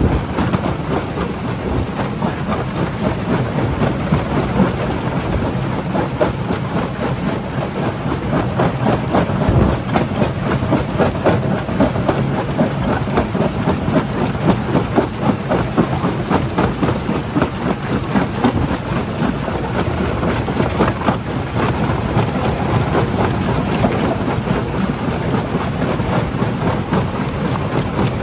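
Stone crusher running and crushing rock: a steady machine drone under a dense, irregular clatter of stone knocking and grinding.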